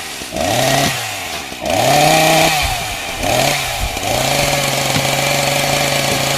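Two-stroke chainsaw revving up and down several times, then held at a steady high speed from about four seconds in.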